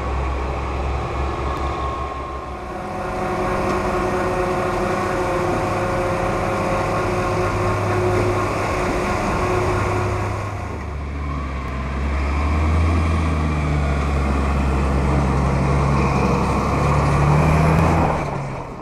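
Heavy diesel engines of large harvesting machinery running under load, with steady high-pitched whines over the deep engine hum. The engine note dips about ten seconds in and then climbs again, and the sound cuts off near the end.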